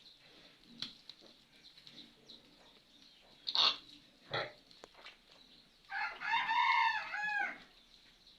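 A rooster crowing once, one long wavering call of about a second and a half near the end. It is preceded by two short, loud, sharp calls less than a second apart.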